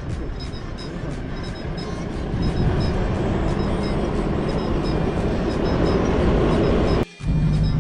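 A four-wheel-drive vehicle's engine running under load with tyre and road noise on soft sand, growing louder about two and a half seconds in. It cuts out for an instant near the end, and a steadier hum follows. Background music plays faintly under it.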